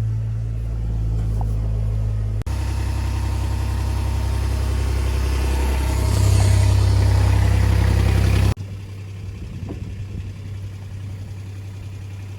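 Farm truck engine running steadily. The sound changes abruptly twice, about two and a half seconds in and about four seconds before the end. The middle stretch is louder, with more noise over the engine hum.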